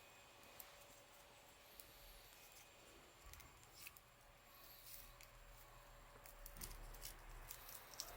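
Near silence, broken by faint, scattered crackles and pops from a wood campfire.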